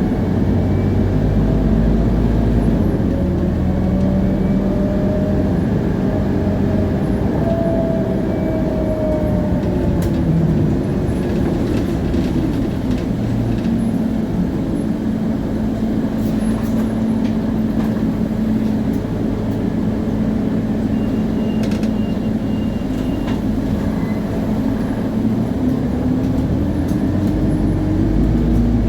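Scania CN280UA city bus under way, heard on board: its rear axle (differential) gives a clear whine that rises in pitch over the first several seconds, holds steadier through the middle and climbs again near the end, over the low running of the Scania DC9 nine-litre engine. The ZF Ecomat automatic gearbox itself stays quiet.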